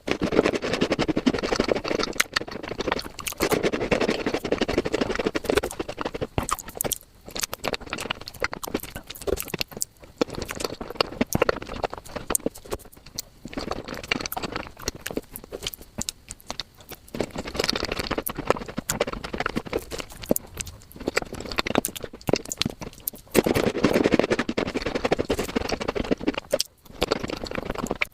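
Close-miked mukbang eating sounds played back at five times normal speed: a dense, rapid stream of chewing and mouth clicks, louder in stretches.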